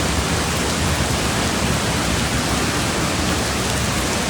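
Steady, loud rush of water in heavy monsoon flooding, an even noise with no breaks and a deep rumble underneath.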